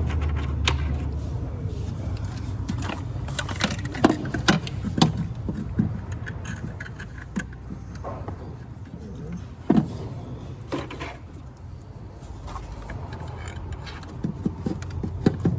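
Scattered metallic clicks, clinks and knocks of hand tools and parts being handled, over a steady low rumble.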